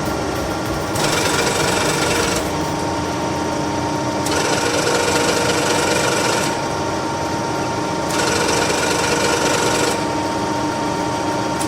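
1M63 heavy screw-cutting lathe running, its gearbox giving a steady whine. A harsher grinding mechanical noise comes on and off three times in runs of about two seconds, as the carriage's rapid traverse is engaged.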